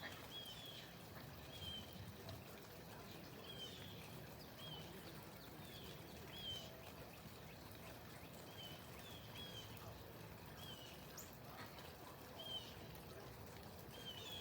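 A bird chirping faintly, short high call notes repeated about once a second, over a low steady rushing noise.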